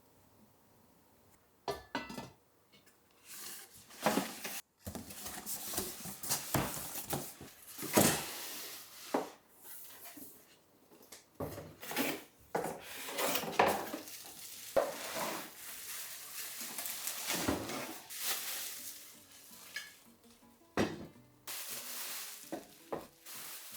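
Pan and kitchen utensils knocking and scraping in irregular clinks and clatters, with stretches of sizzling.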